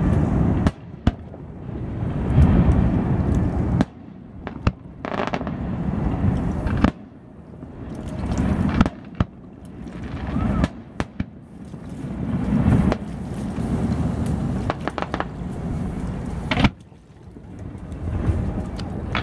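Aerial fireworks shells bursting overhead: a string of sharp bangs and cracks at uneven intervals, each followed by a long low rumble.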